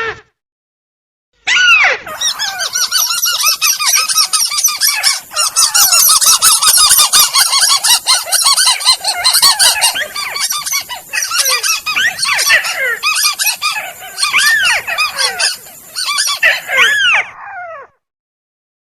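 Recorded calls of the tikusan, a crake or rail, played as a bird-lure track. A dense chorus of many overlapping short arched calls starts about a second and a half in and cuts off abruptly near the end.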